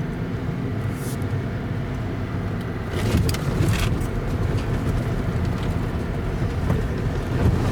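Truck camper driving on an off-road trail: a steady low engine and drivetrain rumble, with brief hissing bursts about a second in and again around three seconds in.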